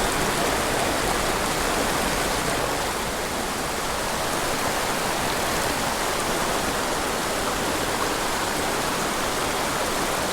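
Steep mountain creek running over rocks: a steady rushing wash of water.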